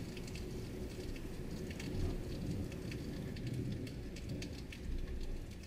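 Rain falling steadily: an even hiss with many separate drops ticking on a surface, over a low rumble.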